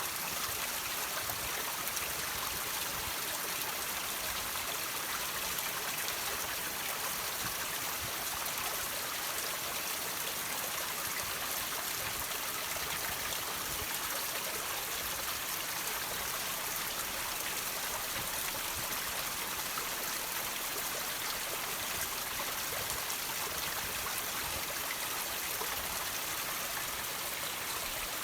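Water trickling and dripping from rocks: a steady splashing hiss full of small, quick drips.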